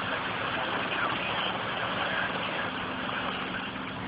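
Small boat's motor running steadily, a low hum under a steady hiss.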